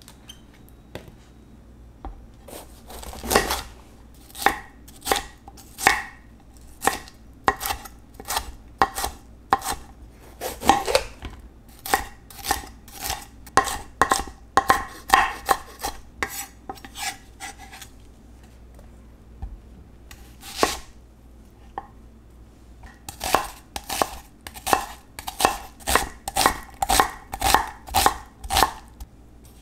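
Knife chopping on a cutting board: a run of sharp, steady strikes a little under two a second, then a pause of a few seconds, then another run.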